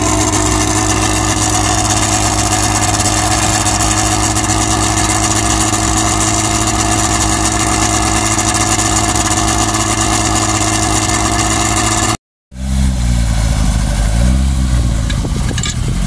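Race car engine idling steadily, from a small rear-engined Seat 600-style car with its engine lid open. After a brief dropout about 12 s in, a second car's engine idles with a wavering, uneven pitch.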